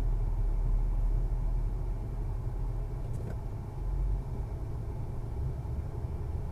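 Motorcycle riding along the road: a deep, steady running sound.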